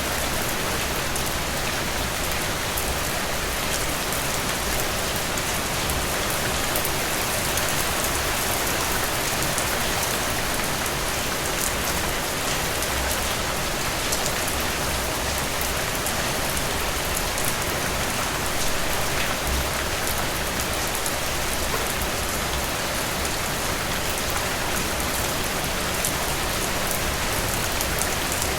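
Steady rain falling, an even hiss of rainfall with many small drop ticks scattered through it.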